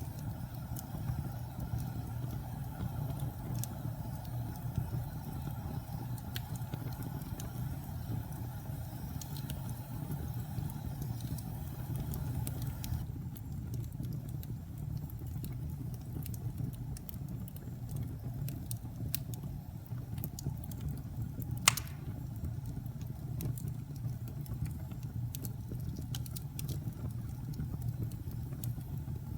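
Wood fire burning in a fireplace: a steady low rumble of flames with scattered small crackles and one sharp pop about three-quarters of the way through.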